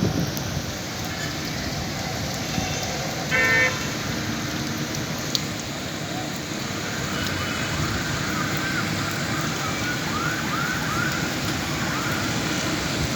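Steady hiss of heavy rain with a street in the background. About three seconds in comes one short, loud horn blast, and about halfway through a run of short rising-and-falling whistled notes.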